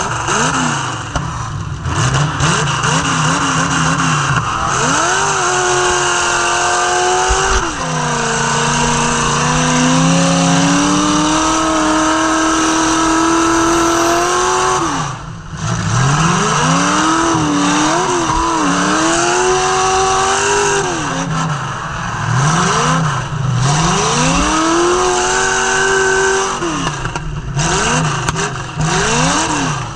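Demolition derby car engine revving hard, its pitch climbing and dropping over and over as the throttle is worked, held high for several seconds around the middle and dropping off sharply once about halfway through.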